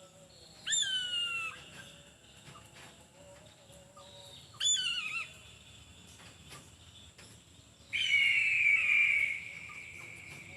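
An eagle calling three times with high, whistled screams. The first two are short and the third is longer and rougher, trailing off near the end.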